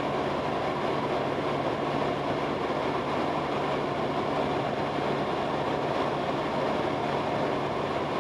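Cessna 172S's four-cylinder Lycoming IO-360 engine and propeller running steadily in flight, a constant drone with a low hum, heard from inside the cabin.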